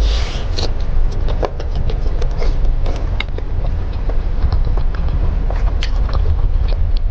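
Close-miked eating: chewing, wet mouth clicks and smacks as a person bites into and chews a sauced, charred chicken leg, over a steady low hum.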